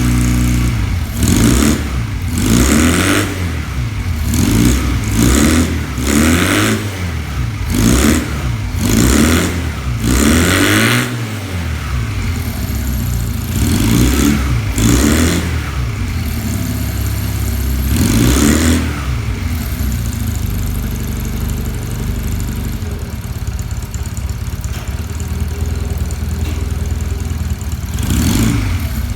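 Freshly restored Honda CD125 twin's air-cooled four-stroke parallel-twin engine, revved in repeated short blips over a steady idle, then left idling, with one more blip near the end.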